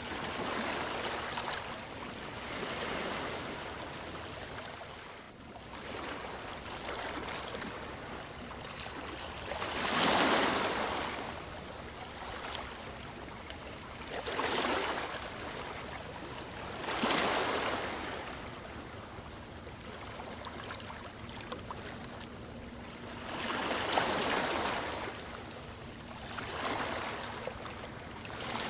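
Sea waves washing in and breaking in irregular surges of hiss every few seconds, the biggest about ten seconds in and again near seventeen and twenty-four seconds.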